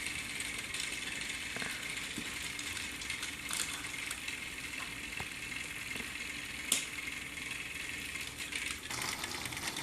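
Battery-powered TrackMaster toy train motors whirring steadily on plastic track, with scattered light plastic clicks and one sharper click about two-thirds of the way through.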